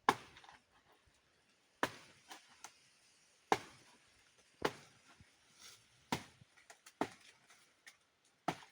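A knife blade chopping into the soft, fibrous stem of a banana plant: about seven separate sharp strikes, roughly one to one and a half seconds apart.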